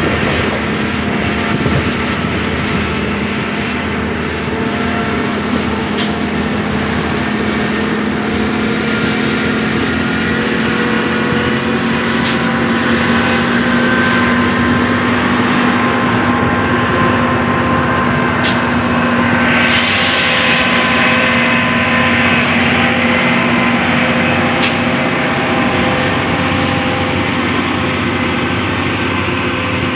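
Truck diesel engine running steadily at highway speed with road noise, a constant droning hum. A hiss rises about two-thirds of the way through and fades.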